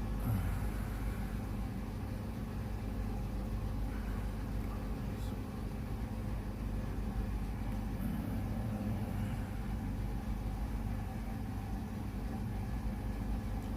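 A steady low mechanical hum, like a motor running, with a faint tick about five seconds in.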